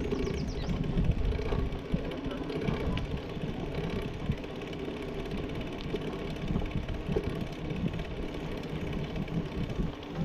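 A bicycle being ridden: the rolling and rattle of the bike with a steady low rumble of wind on the microphone.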